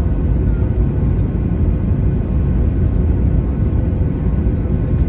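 Jet airliner engines heard from inside the passenger cabin: a steady, loud rumble with faint steady whining tones above it.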